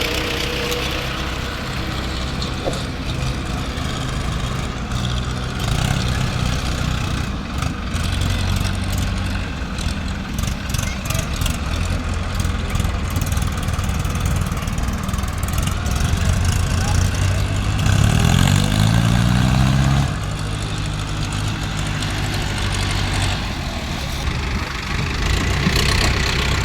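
Diesel engines of an excavator and tractors running steadily at a work site. About eighteen seconds in, one engine revs up in a rising glide for a couple of seconds, then settles back.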